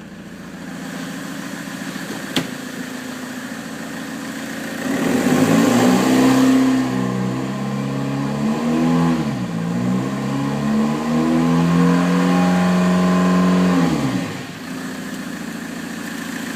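Vauxhall Vectra 2.0 DTI four-cylinder turbo-diesel engine idling, then revved up about five seconds in and held at raised revs with a brief dip in the middle, before dropping back to idle a couple of seconds before the end; the engine runs. A single sharp click comes a couple of seconds in.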